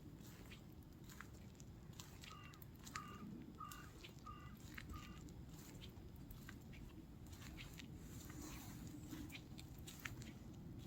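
Faint footsteps crunching on a path over a low wind rumble, with a bird giving a series of five short, evenly spaced calls from about two seconds in.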